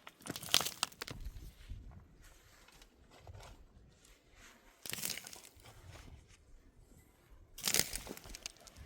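Crunching and rustling in three short bursts: about a second in, about five seconds in and near the end.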